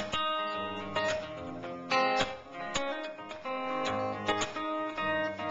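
Acoustic guitar strummed in an instrumental break, chords struck again every second or so and left ringing between strokes.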